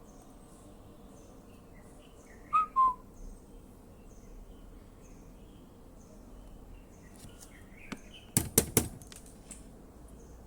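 A bird chirping: two short, loud pitched notes a couple of seconds in, over faint high chirps. Near the end, a quick run of four sharp clicks.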